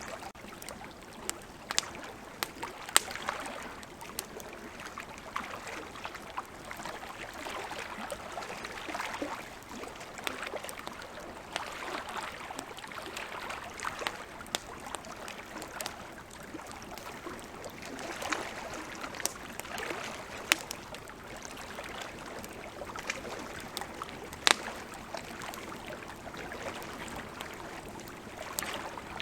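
Wood campfire crackling, with sharp irregular pops, over the steady rush of flowing river water.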